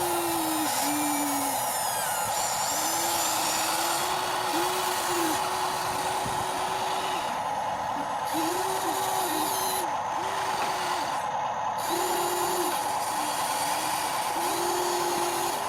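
Small electric gear motors of a radio-controlled construction toy whirring over a steady whine. The motors start and stop again and again in short runs of about half a second to two seconds, their pitch dipping as each one spins up and winds down.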